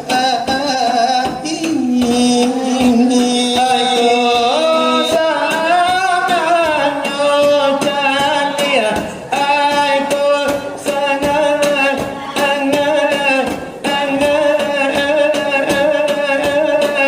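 Selawat dulang: a long, drawn-out melismatic sung line, the pitch held and sliding between notes, over quick rhythmic strokes on dulang brass trays.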